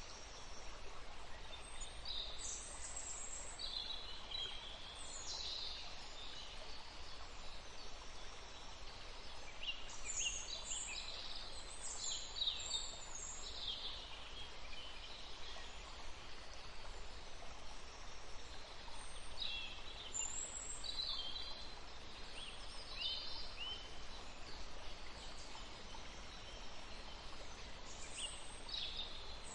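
Several songbirds chirping and calling in short bursts, busiest in the middle, over a steady background hiss.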